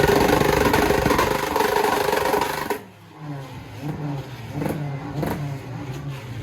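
A car engine revving loudly, dropping away suddenly about three seconds in to quieter engine sound with short, repeated rises and falls in pitch.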